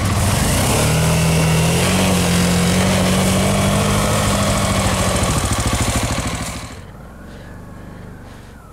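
Dual-sport motorcycle engine revving up and held at high revs for several seconds, then dropping away about six seconds in as the sound falls much quieter.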